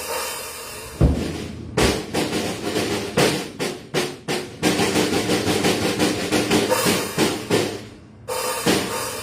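Drum kit played loosely: a couple of bass-drum hits, then a quick run of strikes around the kit, then a long ringing cymbal wash that fades and gives way to fresh hits near the end.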